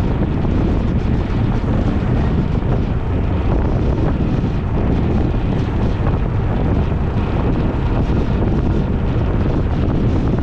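Wind rushing and buffeting over the camera microphone of a moving ride, mixed with road and vehicle noise, steady throughout.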